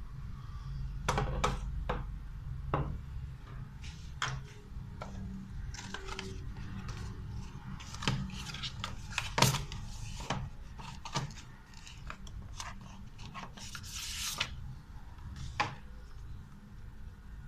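Unpacking and handling noise: irregular clicks, taps and rubbing of plastic parts and packaging, with a longer rustle about fourteen seconds in.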